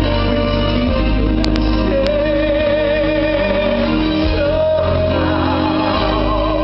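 Live ballad music from a band, with a singer holding long notes with vibrato over it.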